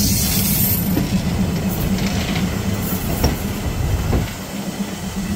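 Passenger train coaches rolling past at close range, their steel wheels rumbling steadily on the rails with a pulsing clatter, and a high squeal from the wheels near the start.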